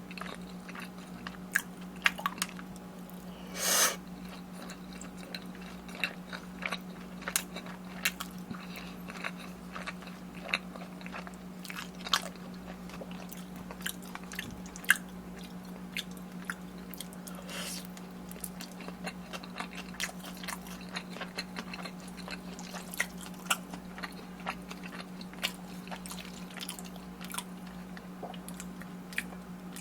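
A person chewing and biting food close to the microphone, with many small, sharp, wet mouth clicks and a brief louder noisy burst about four seconds in. A steady low hum runs underneath.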